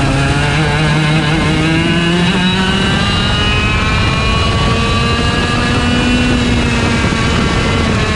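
IAME Leopard 125cc two-stroke kart engine under full throttle, its pitch climbing steadily as the kart accelerates for about six seconds, then the revs fall away near the end.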